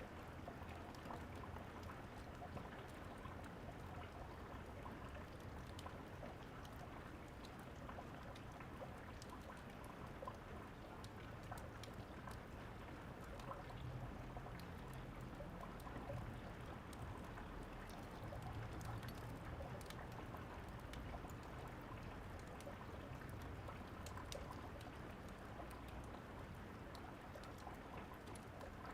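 Steady rainfall, a soft even hiss with a low rumble beneath, and faint scattered crackles from a fireplace.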